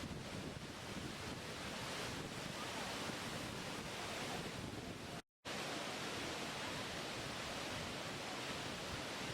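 Steady rushing noise of falling water. The sound cuts out completely for a fraction of a second about five seconds in, then resumes unchanged.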